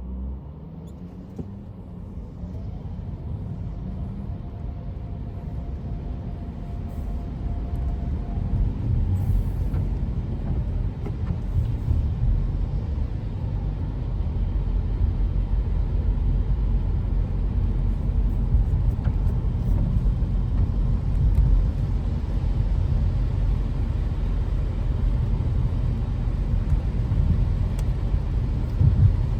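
Low, steady rumble of a car driving, building over the first ten seconds and then holding steady.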